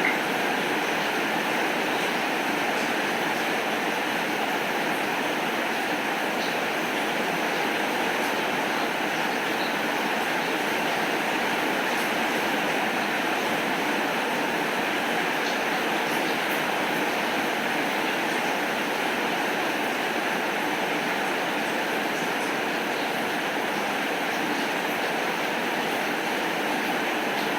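Steady rain falling: an even, unbroken hiss with a few faint scattered ticks.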